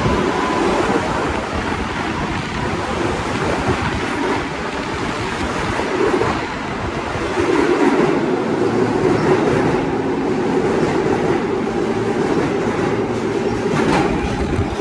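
New York City subway L train moving along the platform: a steady, loud rumble of steel wheels on rail with clickety-clack from the rail joints, swelling about halfway through, and a sharp clack near the end.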